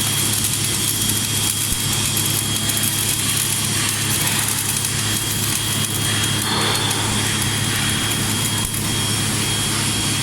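Steady machine hum with a constant high whine over a dense crackling hiss, unchanging throughout.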